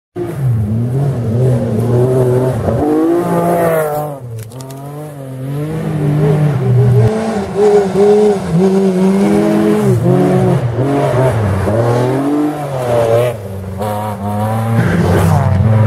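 Rally car engine at full throttle, its pitch climbing steeply and then dropping with gear shifts and lifts, several times over.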